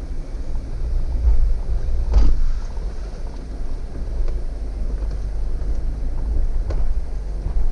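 Jeep crawling slowly over rock, a steady low rumble with a sharp knock about two seconds in and another near the end.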